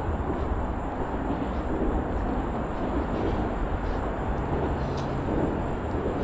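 A steady low rumble of outdoor noise, with faint light footsteps about once a second on the trail.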